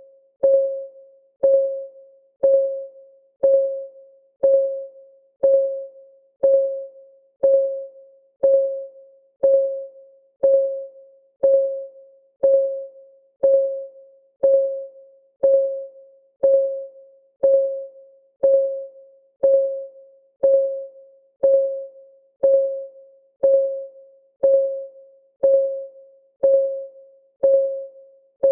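Clock-ticking sound of a countdown timer: a steady tick once a second, each tick short with a brief pitched ring.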